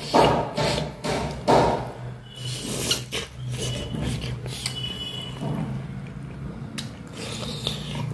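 Close-miked mouth sounds of a person eating rice and dal by hand: three loud chewing smacks in the first couple of seconds, then quieter chewing, over a low steady hum.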